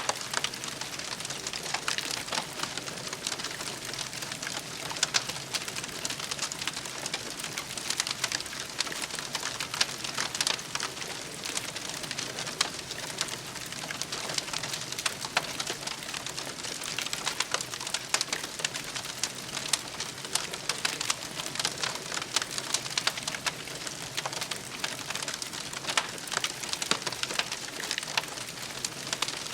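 Campfire burning with a steady hiss and a dense run of small crackles and snaps.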